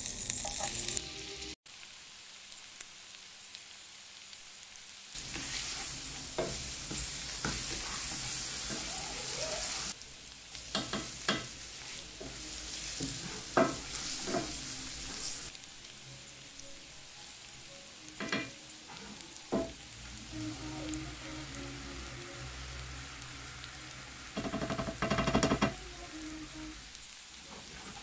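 Butter sizzling and frying in a nonstick pan with minced garlic and chili flakes, stirred with a wooden spoon. Short scrapes and taps of the spoon against the pan come now and then, a few of them louder.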